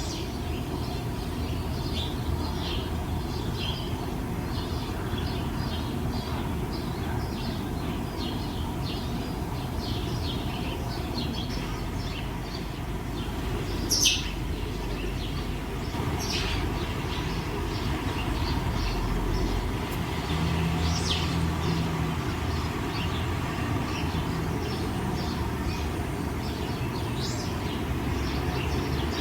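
Small birds chirping in quick, repeated short calls over a steady low rumble, with one louder chirp about halfway through.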